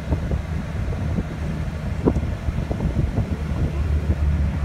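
Low, steady engine rumble of a car rolling slowly, with wind gusting across the microphone.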